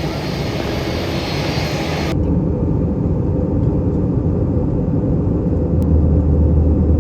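Steady roar of an airliner's engines; about two seconds in it turns suddenly muffled and deep, and the low rumble grows stronger near the end.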